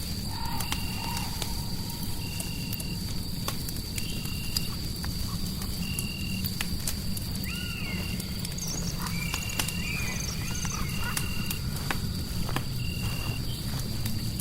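Crackling fireplace, sharp pops over a steady low rumble, layered with a short high chirp that repeats about once a second and a thin steady high whine. A few rising and falling animal-like calls come in around the middle.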